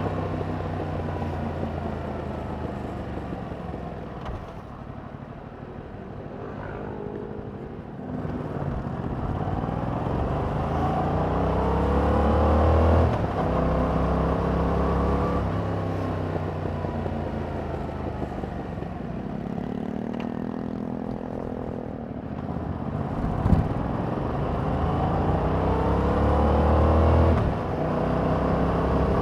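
2021 Yamaha MT-07's parallel-twin engine through its stock exhaust, ridden on the road: the engine note falls as it slows, then climbs in pitch under throttle, with sudden drops at two gear changes and a single sharp knock between them.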